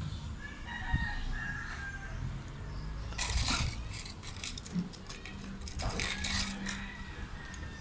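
A bird calling, with harsh noisy stretches about three seconds in and again around six seconds.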